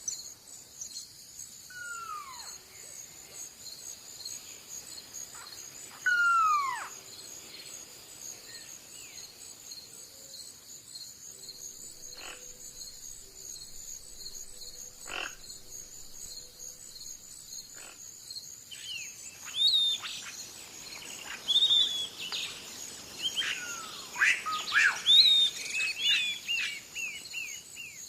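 Natural outdoor ambience: a steady, pulsing high insect chorus of crickets throughout, with birds calling over it. Two clear falling whistles come early, a few low calls come in the middle, and a busy flurry of bird chirps fills the second half.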